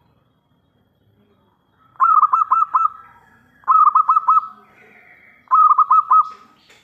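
Zebra dove (perkutut) singing: three quick phrases of four or five rapid notes each, the first about two seconds in, with short pauses between them.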